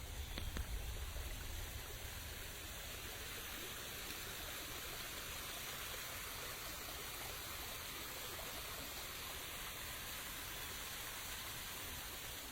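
Steady rain falling, an even hiss with no breaks. In the first second or two there is also a low rumble and a couple of faint clicks.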